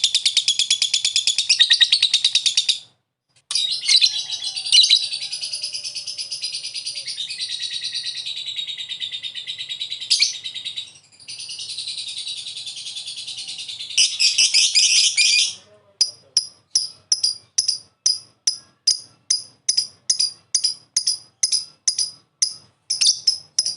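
Lovebird ngekek: long runs of rapid, high trilling chatter, broken by a short pause about three seconds in and a brief dip near the middle. From about 16 seconds on it gives way to a regular series of short, sharp chirps, about two a second.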